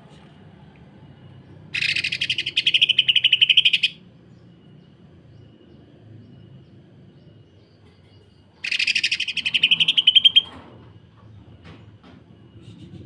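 Cucak ijo (green leafbird) giving two bursts of rough, very fast rattling song, like a sewing machine, each about two seconds long, the first about two seconds in and the second near nine seconds.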